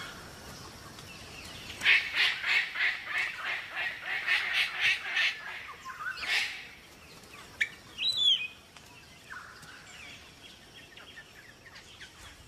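Bird calling: a run of harsh repeated calls, about three a second, starting about two seconds in. A single call follows, then a short rising whistle.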